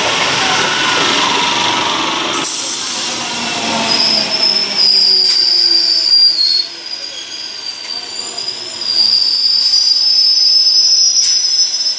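Electric multiple unit (EMU) local train: first the rushing rattle of carriages passing close by. After an abrupt change, a loud, steady, high-pitched squeal from the wheels and rails of an approaching EMU, wavering slightly, lasts most of the rest.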